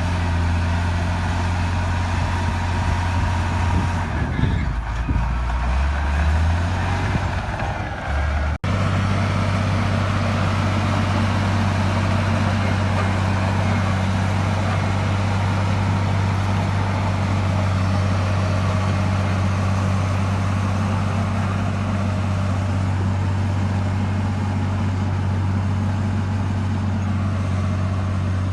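Heavy diesel engine of a bulldozer running steadily with a deep drone. About four to six seconds in the engine pitch dips and wavers, and a split-second break comes at about eight and a half seconds before the steady drone resumes.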